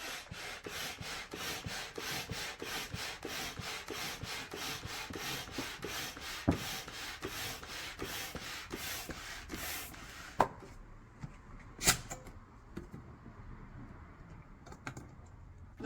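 Air pump inflating the upper chamber of an inflatable flood barrier toward 13 psi, with even rhythmic strokes of air, about two and a half a second. About ten seconds in the pumping stops and a few sharp clicks follow.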